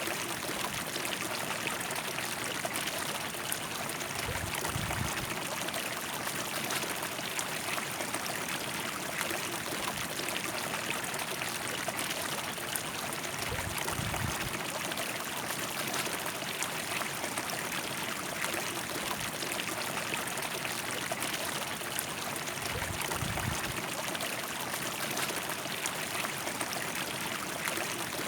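River water flowing and rushing steadily over its bed, an even, full splashing noise. Three brief low rumbles come and go, about nine seconds apart.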